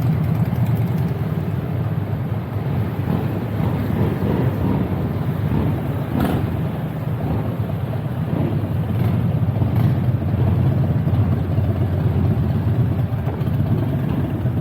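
Vehicle engine running with a steady low drone, with a short click about six seconds in.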